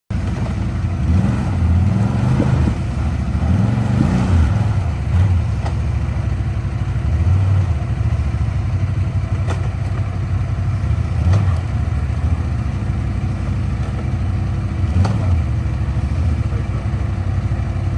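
Small vehicle engine running, revving up a few times in the first five seconds, then idling steadily, with a few sharp clicks.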